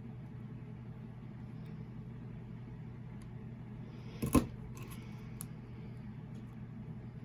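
A single sharp, loud clack about four seconds in, typical of a Big Bite hand punch snapping shut through faux leather, followed by a few light clicks of the tool and pieces being handled, over a steady low background hum.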